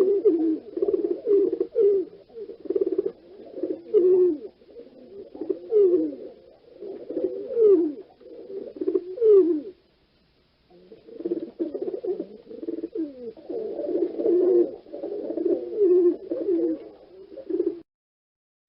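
Pigeons cooing, low calls overlapping one another almost without pause. They break off for about a second midway and stop shortly before the end.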